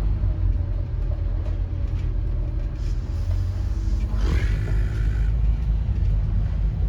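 A Scania N230UD double-decker bus's five-cylinder diesel engine running, heard from inside on the upper deck as a steady low rumble. A brief rising whine comes a little after four seconds in.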